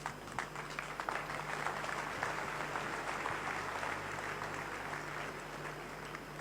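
Congregation applauding. It starts suddenly, fills out over the first second or two, then thins out near the end.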